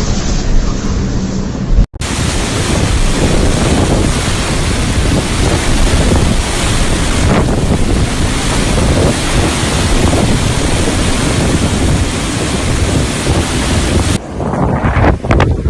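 Strong blizzard wind buffeting the microphone: a loud, steady rush of noise that cuts off abruptly near the end.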